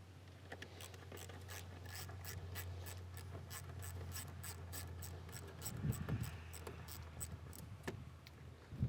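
Ratchet wrench clicking in a steady run of quick clicks, about three to four a second, as it backs off an 8mm worm-gear hose clamp on the air intake duct, with a couple of duller knocks about six seconds in.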